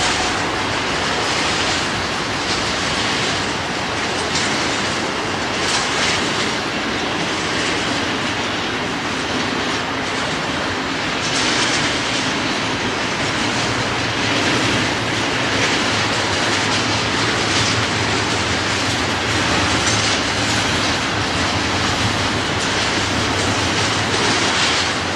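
Cars of a long container intermodal freight train rolling past in a steady rumble, wheels clicking over rail joints.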